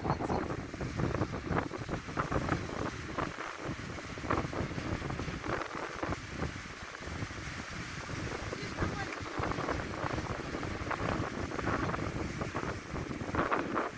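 Wind buffeting the microphone in uneven gusts, a heavy low rumble that rises and falls.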